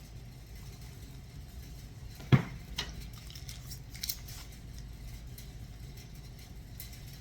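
Kitchen handling sounds while preparing a cake: one sharp knock about two seconds in, then a few light clicks, over a low steady hum.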